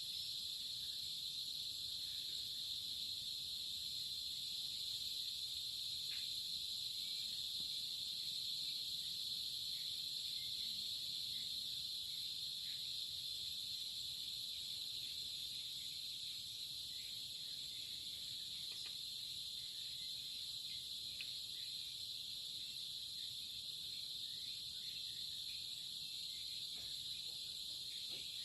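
A steady, high-pitched chorus of insects that runs on without a break.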